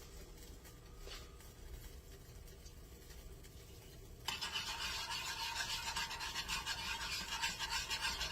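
A whisk beating buttermilk gravy in a pan: a fast, steady scraping rasp that starts suddenly about four seconds in, after a quiet stretch. The whisking works out lumps so the gravy turns smooth.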